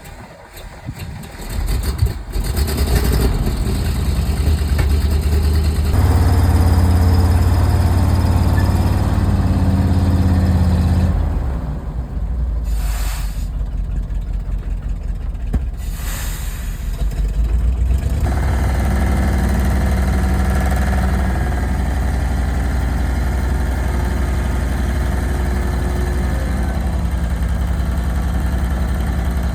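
A 1986 Chevrolet ME6500 tandem-axle dump truck's engine starts up about two seconds in. It then runs and revs for several seconds, drops back, and settles into a steady idle. Two short hisses come about halfway through.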